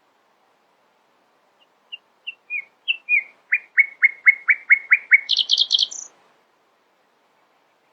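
A songbird singing one phrase. A few soft notes quicken into a loud run of about seven down-slurred whistles, roughly four a second, which ends in a brief higher, harsher trill and one high note.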